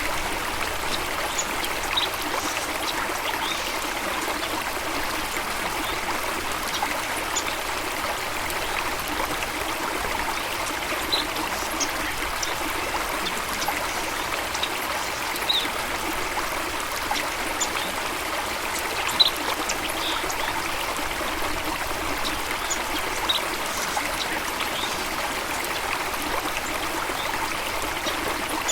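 Steady rush of a stream or small waterfall, with a few brief high-pitched blips scattered through it.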